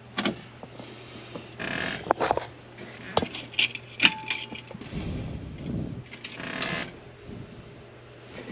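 Irregular clicks, rattles and scrapes as car switches and keys are worked by hand inside a 1965 Ford Mustang during a test of new light and ignition switches. A short faint tone sounds about four seconds in, and a low rumbling comes about five seconds in.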